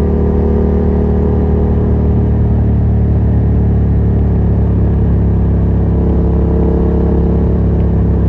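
Yamaha MT-07's 689 cc parallel-twin engine running through an open Yoshimura R77 exhaust with no dB killer, holding a steady, even note. The pitch shifts slightly about two seconds in.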